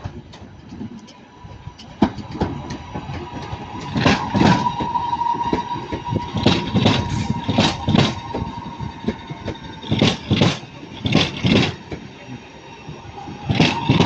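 A train moving slowly through the station, its wheels knocking over rail joints mostly in close pairs, with a steady high whine held underneath.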